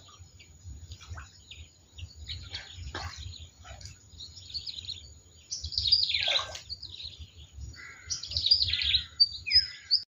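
Birds chirping and calling in quick, repeated notes, loudest about six seconds in and again near the end, over a faint low rumble.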